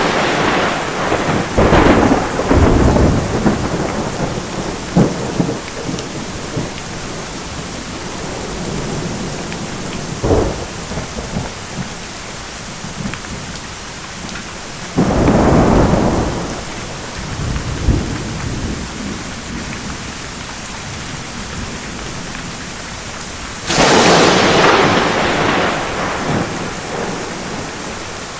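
Thunderstorm: steady heavy rain with thunder. A crash rolls on at the start, another loud clap comes about halfway, and a third near the end, with a few shorter cracks between them.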